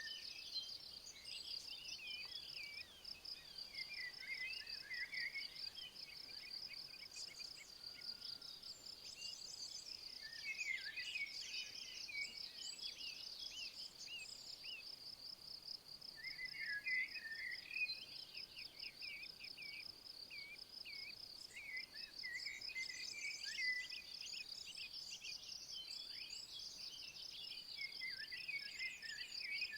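An insect stridulating in a steady, rapidly pulsing high trill, with songbirds singing short, twittering phrases in several bouts.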